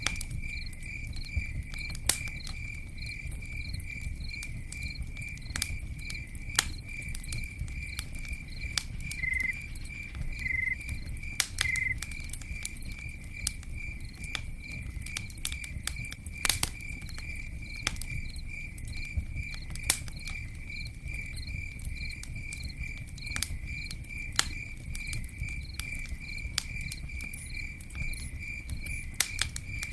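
Campfire crackling, with irregular sharp pops and a low steady rumble of flame. A cricket chirps throughout in an even, unbroken rhythm, and a second, slightly lower chirp joins three times near the middle.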